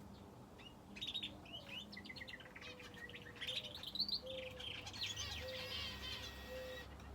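Small cage birds, finches and a canary, chirping and singing: a quick run of varied high notes starts about a second in, with a rising note in the middle and a rapid trill toward the end.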